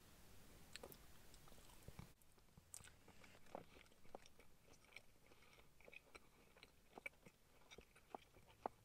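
Faint chewing of a mouthful of crispy fried popcorn chicken and chips, with scattered short crunchy clicks.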